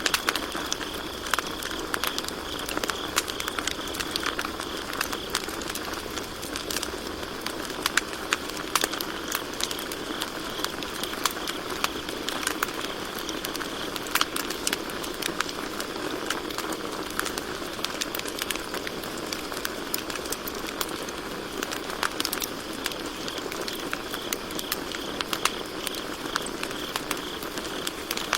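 Wood campfire crackling, with frequent sharp pops and snaps over a steady hiss of burning. Crickets chirp in a faint high trill behind it.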